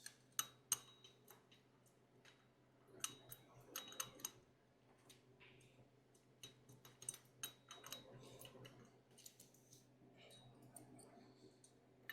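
Scattered light clicks and clinks of small metal parts and hand tools being handled, some in quick clusters.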